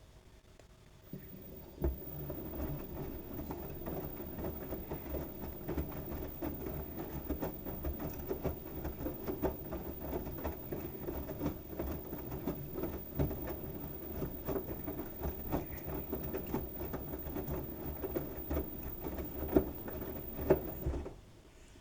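LG washing machine drum turning a load of wet towels: a steady rumble with irregular patter and thumps as the towels tumble. It starts about a second in and stops abruptly near the end.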